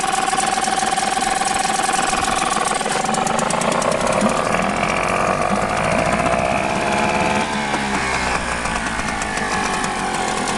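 Mercury 5 hp two-stroke outboard motor running just after starting. Its pitch climbs steadily from a few seconds in as the throttle is opened, then drops quickly back to a lower speed about three-quarters of the way through.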